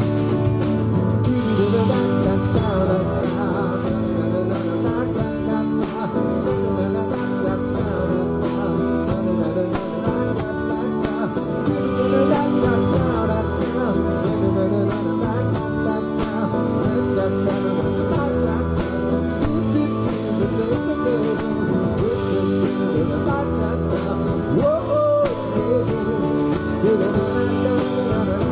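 Rock band music: a song's instrumental passage led by guitar over a steady beat.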